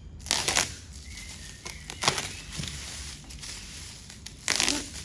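Packaging being handled, rustling and crinkling in a few brief bursts.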